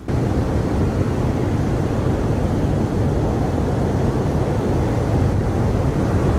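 Strong hurricane wind buffeting the microphone: a loud, steady rumbling rush that cuts in suddenly at the start.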